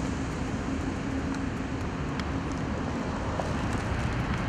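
Steady street traffic noise, with an engine hum that fades about halfway through.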